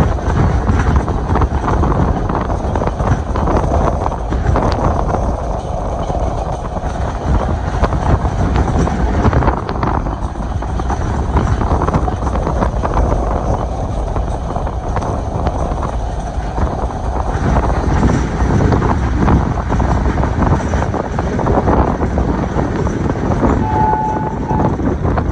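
Passenger train running along the line: a steady rumble of wheels on rail with rushing air. Near the end a short high tone sounds for about a second.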